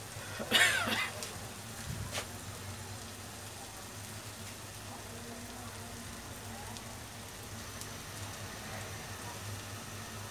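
Sliced onions frying in hot mustard oil, a steady crackling sizzle from the foaming oil. A brief, loud clatter sounds about half a second in, and a smaller click near two seconds.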